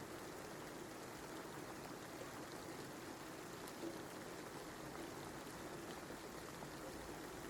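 Steady rain falling: a soft, even hiss with a few faint scattered drop ticks.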